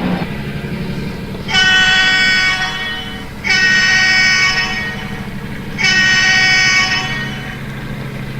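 Sound-equipped HO scale model diesel locomotive sounding its multi-chime horn three times, two long blasts and then a shorter one, the opening of a long-long-short-long grade-crossing signal. The diesel engines run steadily underneath.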